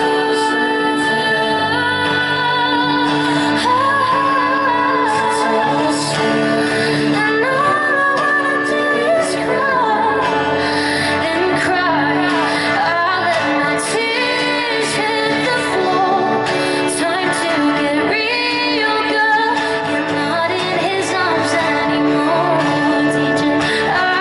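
A woman singing a pop song live, her voice wavering and gliding over a steady sustained accompaniment.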